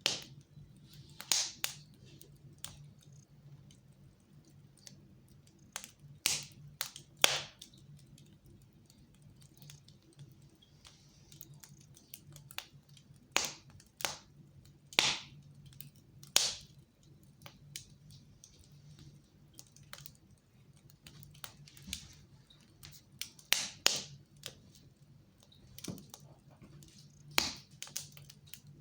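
Wood fire burning in a fireplace, crackling with irregular sharp pops, a few of them much louder than the rest, over a faint steady low hum.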